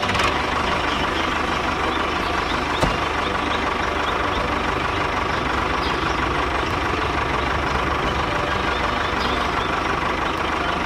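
Mini tractor's small engine running steadily at idle, an even mechanical drone with a constant whine.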